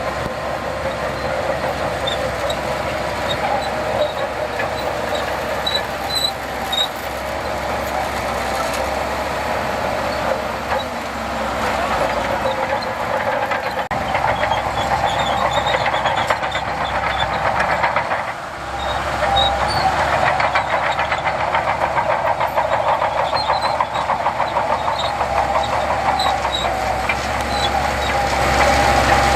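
Heavy diesel earthmoving machinery working: a steady engine drone with a rapid pulsing clatter, dipping briefly about two-thirds of the way through.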